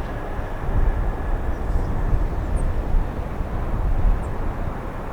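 Low, steady rumble of a Boeing 747 LCF Dreamlifter's four jet engines as it climbs out after takeoff.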